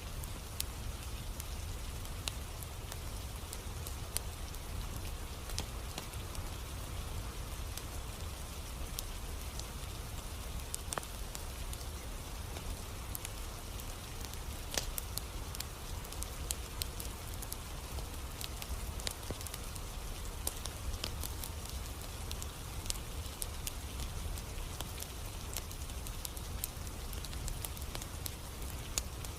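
Campfire burning in the rain: steady rain patter with sharp, irregular crackles and pops scattered throughout, over a low steady rumble.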